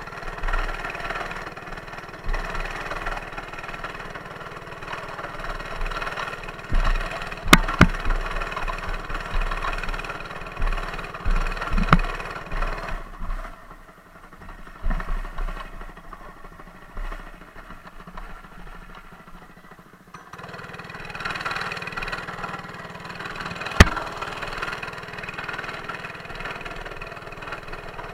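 Mini bike's small engine running. Its sound thins out for several seconds in the middle and then comes back. A few sharp knocks and short low rumbles come through over it.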